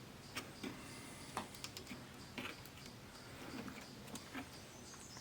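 Faint, irregular clicks and taps of hands handling the plastic and metal parts of an opened LCD TV, over a low steady hum.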